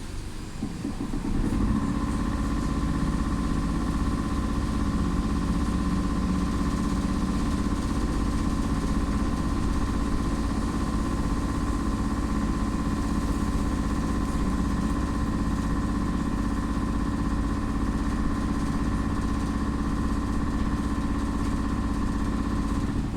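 Steady electric hum and whine from a BKM 333 trolleybus's onboard electrical machinery, heard inside the vehicle. It starts about a second and a half in, holds one unchanging pitch throughout, and cuts off abruptly near the end.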